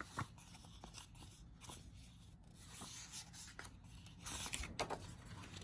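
Faint paper rustling and light handling clicks as a picture book's page is turned, the rustle loudest about four seconds in.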